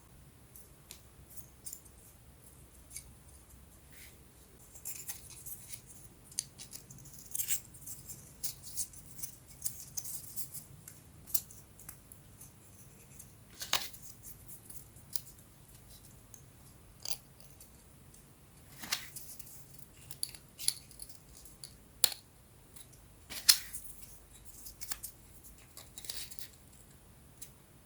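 Small wooden puzzle pieces being handled and fitted together: irregular sharp clicks, taps and light scrapes of thin wood, the loudest about 14, 22 and 23.5 seconds in.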